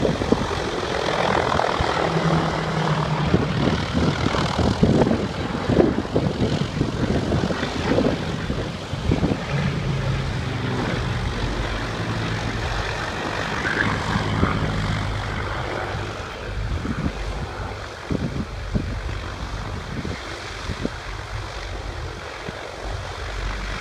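Avro Lancaster bombers' Rolls-Royce Merlin piston engines droning steadily in flight.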